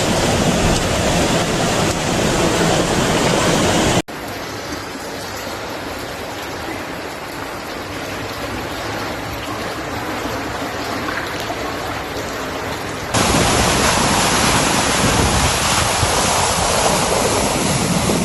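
Rushing floodwater: a steady, noisy rush of moving water. It cuts off abruptly about four seconds in to a quieter rush, then switches back to a loud rush near the thirteen-second mark.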